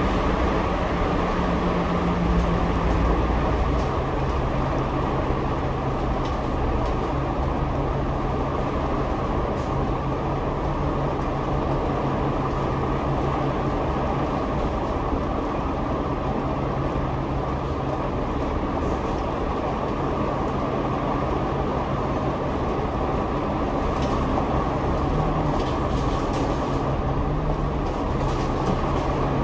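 Interior noise of a double-decker bus under way, heard from the upper deck: a dense steady rumble of engine and road noise with a drone that drops in pitch about three seconds in, holds steady while cruising, and climbs again near the end.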